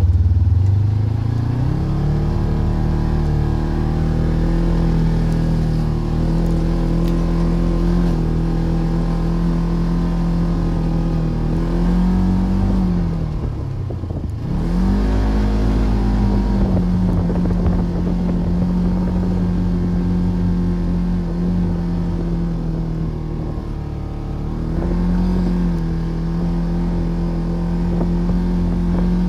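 Polaris RZR Trail side-by-side's 75-horsepower engine under way, revving up about a second in and then holding a steady speed. Around the middle it drops off sharply and climbs back up, and it shifts pitch once more near the end.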